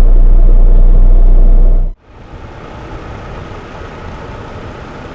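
Tractor-trailer engine running with a very loud, deep, steady rumble that cuts off abruptly about two seconds in, followed by a much quieter steady vehicle hum.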